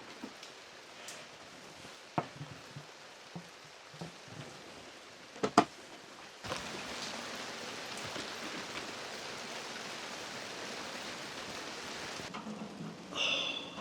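Rain falling: first a few scattered sharp taps, then about six and a half seconds in a steady hiss of heavy rain starts abruptly and keeps on.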